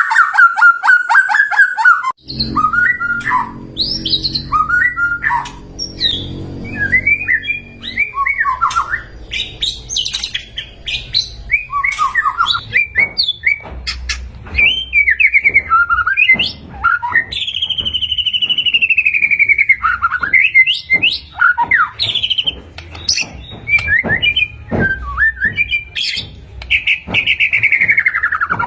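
White-rumped shama (murai batu) singing a long, varied song of whistled notes, rising and falling glides, rapid trills and sharp clicks. A low steady rumble runs underneath from about two seconds in.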